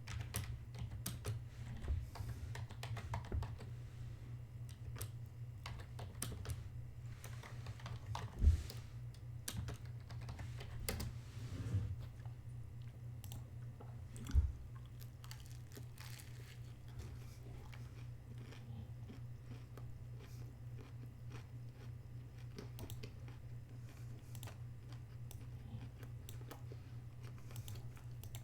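Chewing and crunching on a chicken burger and fries: many small mouth clicks and crunches, with two louder thumps about a third and halfway through, over a steady low hum.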